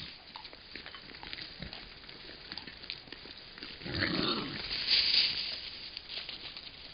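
Wild boar foraging for acorns: scattered small crunches and clicks of acorns being chewed. About four seconds in there is a louder low grunt, then a short rush of breath.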